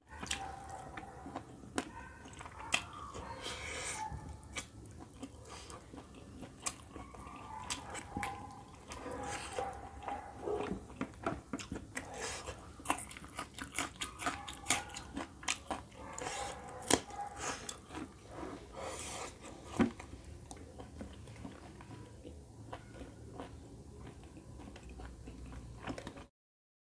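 Close-miked chewing of chicken curry and rice eaten by hand: wet mouth sounds with many sharp irregular clicks and smacks. It stops abruptly near the end.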